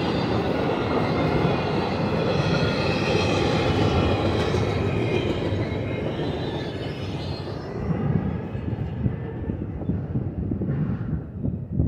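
Double-stack intermodal freight cars rolling past on steel wheels, a steady rumble with thin high ringing tones over it. About seven seconds in the train noise fades as the last cars pull away, and uneven gusts of wind on the microphone take over.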